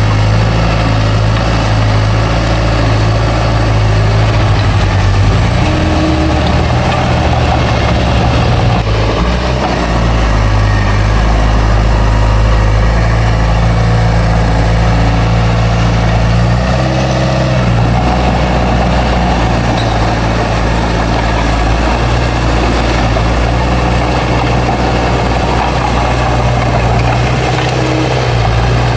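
Heavy diesel engine of a bulldozer running steadily, its low pitch shifting briefly a few times as the load changes.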